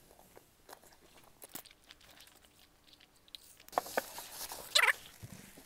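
Close-miked eating sounds: a person chewing a mouthful of food, with soft wet mouth clicks that grow louder and denser in the last two seconds.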